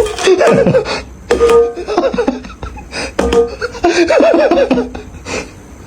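A person laughing in repeated bursts, with music behind.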